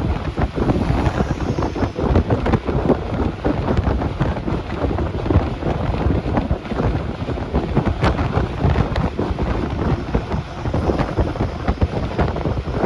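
Moving bus recorded from a passenger seat: wind rushing and buffeting against the microphone, over the rumble of the bus and its road noise, loud and unsteady throughout.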